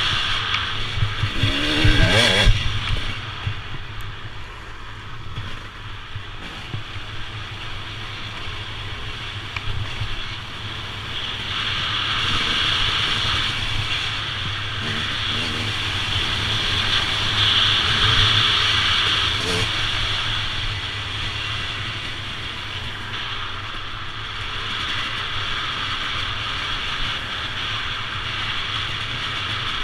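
Motorcycle engine running under way, revving up briefly about two seconds in, then holding a steady drone, with steady wind and road noise on the mounted camera's microphone.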